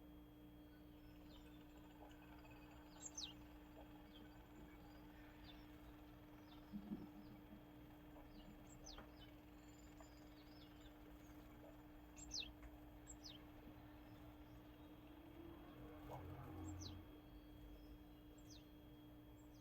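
Faint, scattered calls of small birds: thin, high notes that each drop quickly in pitch, about a dozen in all. They sit over a steady low hum, with a soft knock about seven seconds in.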